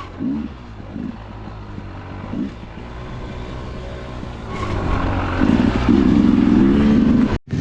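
Dirt bike engine running at low revs, then revving up and pulling hard from about halfway through, its note wavering as the throttle works. The sound cuts out sharply for an instant near the end.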